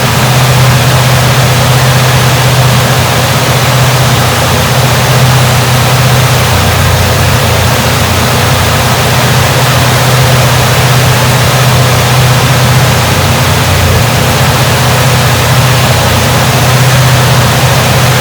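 Chevrolet 350 small-block V8 idling steadily: a loud, even drone with no change in speed.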